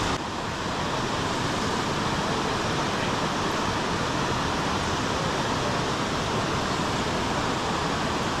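Steady rush of a small waterfall and the creek's current, with a slight drop in level just after the start.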